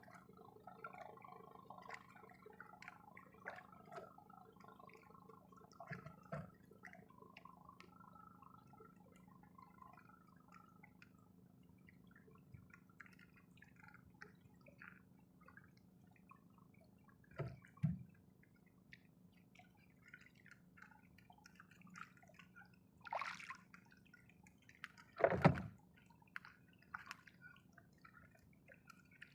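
Faint dripping and trickling of water with scattered small ticks. There are two short thuds about two thirds of the way through and a louder thud a few seconds before the end.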